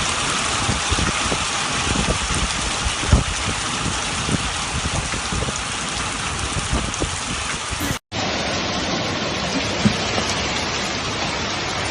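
Hail pelting down hard: a dense, steady clatter of hailstones with many sharper individual hits. About two-thirds of the way through it cuts abruptly to another stretch of the same kind of hail noise.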